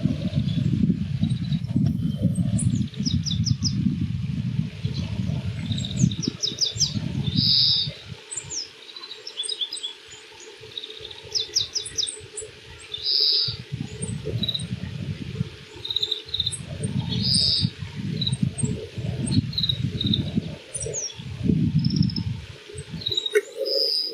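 Oriental greenfinch singing: repeated phrases of quick high twitters, each with a longer drawn-out note. Under it is a low rumble that is heavy for the first several seconds, drops away in the middle and comes back near the end.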